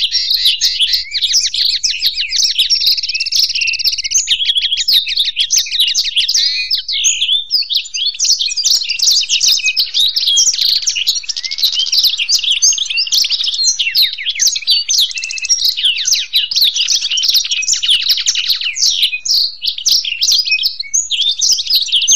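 Non-stop song of a black-throated canary and a European goldfinch: fast, dense twittering trills and warbles with no pause, the phrases changing every few seconds.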